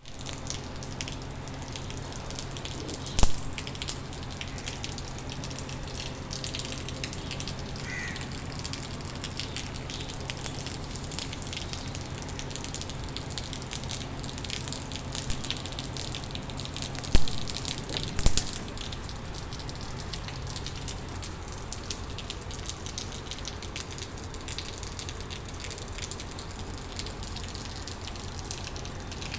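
Rain falling steadily, a dense patter of drops with a few louder single knocks, one about three seconds in and two close together past the middle.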